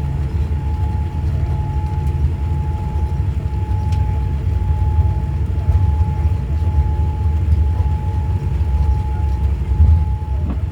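Cabin noise of a Boeing 787-9 rolling on the ground after landing: a steady, loud low rumble with a thin steady whine running through it.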